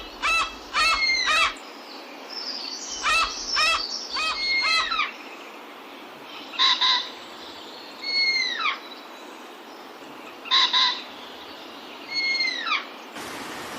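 Jungle birds calling: quick runs of short, pitched nasal notes alternating with clear downward-slurred whistles, repeated every couple of seconds. Just before the end, a louder, noisier sound cuts in.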